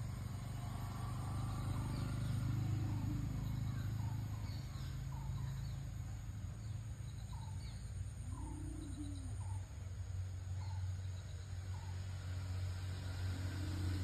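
Small birds chirping, a run of short, quick, downward chirps repeated every half second or so through the middle, over a steady low rumble.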